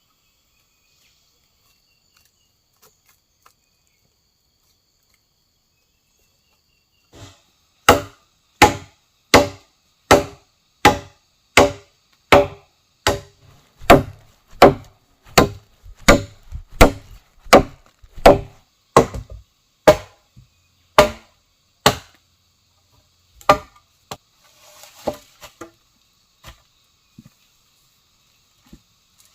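Wood being chopped with a blade: a run of about twenty sharp, evenly paced strokes, roughly one and a half a second, starting about a quarter of the way in, then a few lighter, scattered knocks. Before the chopping, only a faint steady chirring of insects.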